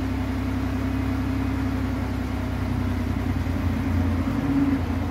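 2008 Pontiac Grand Prix engine idling steadily.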